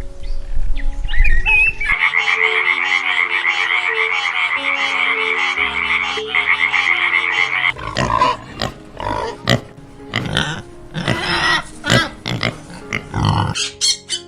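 Frogs calling over background music: a dense chorus of rapid pulsing trills for several seconds, then separate, irregular croaks in the second half.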